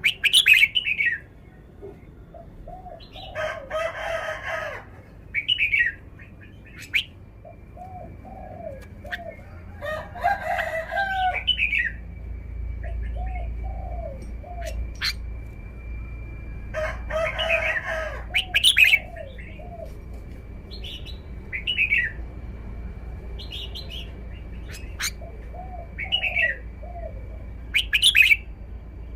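Red-whiskered bulbul singing short, bright phrases every few seconds, with three longer, denser bursts of song. A lower, repeated arching call from another bird runs underneath in short runs.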